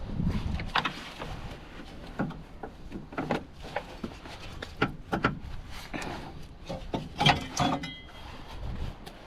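Irregular clicks, taps and rubbing of plastic trim clips and parts being worked loose by hand in a car's engine bay.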